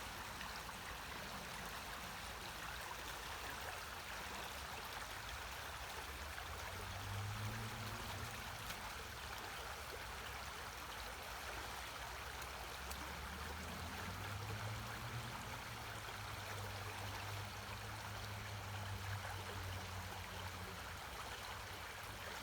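Creek water rushing over rocks, a steady, even rush.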